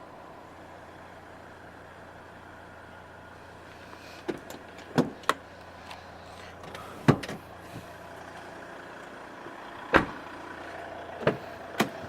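Seven sharp, brief clicks and knocks, spread out and irregular, over a steady low hum inside a car, as interior fittings are handled and operated.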